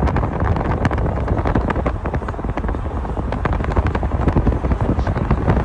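Wind buffeting the microphone: a steady low rumble with frequent crackles.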